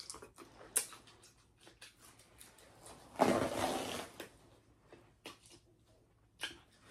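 Eating sounds from a seafood boil mukbang: small wet clicks and smacks of mouth and food, with one louder noisy burst, like a slurp or a rustle, lasting about a second about three seconds in.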